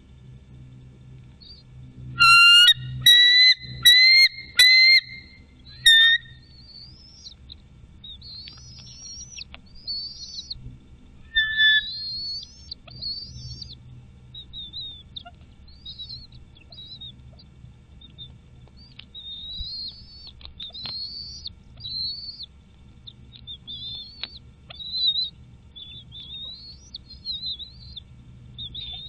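Birds calling: a steady series of short, high, rising chirps, with four loud, piercing whistled notes in quick succession about two to five seconds in, and another loud note near the middle.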